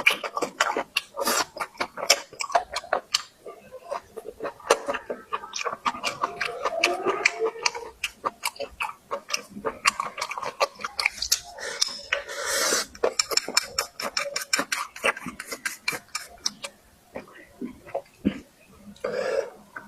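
Close-miked eating: chewing with a rapid, irregular run of wet clicks and lip smacks, and a short hissing rustle about two-thirds of the way through.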